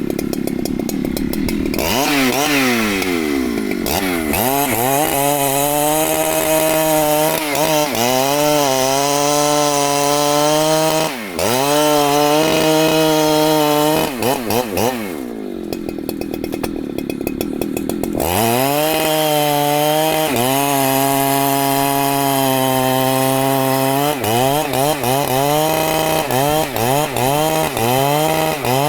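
Large two-stroke Husqvarna chainsaw cutting wood at full throttle, its engine pitch repeatedly dipping and recovering as the chain bites under load. Midway it drops back to a lower, quieter run for a few seconds, then revs up and cuts again.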